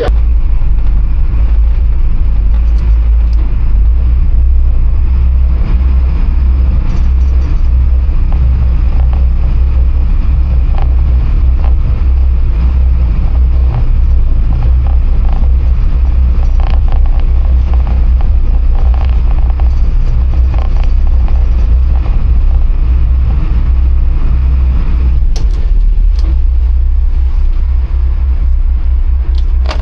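A boat's engines running steadily while underway, a heavy, even low rumble with the wash of the hull through the water.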